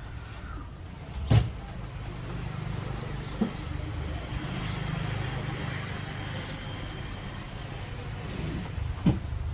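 Steady low rumble of road traffic, broken by two sharp knocks, one about a second in and one near the end, with a softer click between them.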